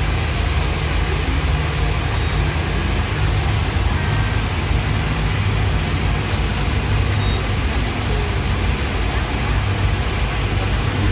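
Steady drone of a speedboat's engines under way, with a constant rushing noise over it.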